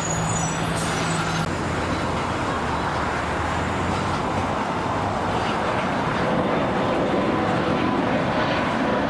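Steady road traffic noise with a low engine hum from a passing vehicle. A faint steady whine joins in about halfway through as the overall noise slowly grows.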